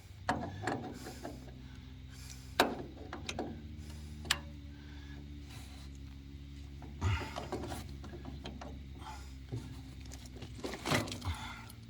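Metal plumbing fittings and tools being worked by hand: scattered sharp clicks and knocks, the sharpest a couple of seconds in and another about four seconds in, over a steady low hum.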